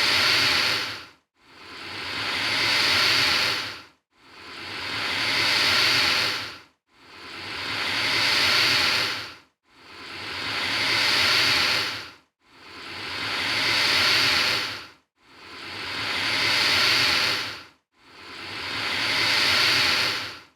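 Alligator hissing: a breathy hiss repeated at a steady pace about every three seconds, each one swelling up gradually and then cutting off, with short silent gaps between.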